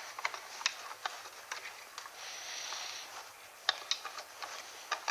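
Irregular small metal clicks, with a short stretch of scraping about two seconds in, from a homemade metal router circle-cutting jig being handled and adjusted.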